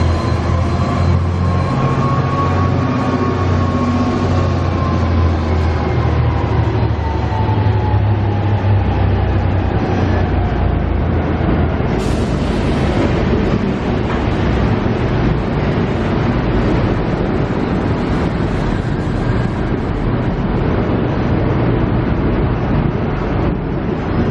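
Passenger train carriages rolling past on the track as the train departs, a steady heavy rumble. A low pitched diesel engine drone and some falling tones fade away over the first several seconds. There is one brief sharper sound about halfway through.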